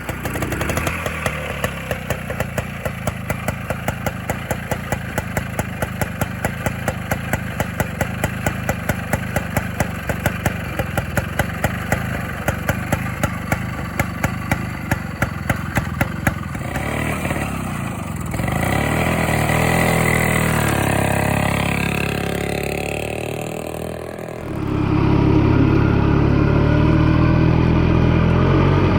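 Francis Barnett Falcon 200's 197cc Villiers two-stroke single running with a regular popping beat, several pops a second. About 17 seconds in it revs up and down, then runs louder and steadier. The engine is not running right, which the rider puts down to a carburettor that needs a good clean.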